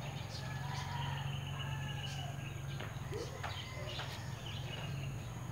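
Birds chirping and calling, with short whistled and chirped notes scattered through, over a steady low hum.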